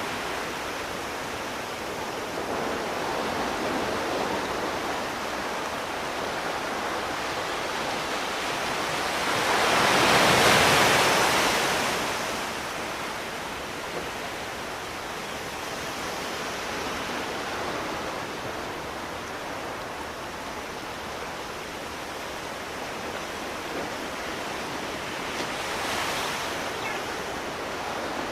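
Sea surf washing steadily onto the shore, with one larger wave breaking and swelling louder about ten seconds in and a smaller one near the end.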